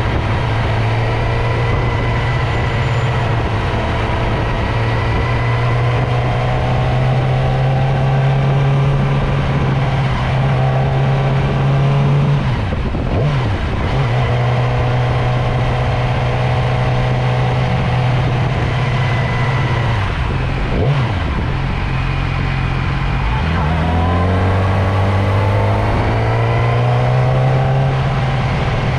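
Motorcycle engine running while riding, its pitch mostly steady. The pitch drops briefly and recovers twice, about halfway through and again later, then climbs as the bike accelerates near the end.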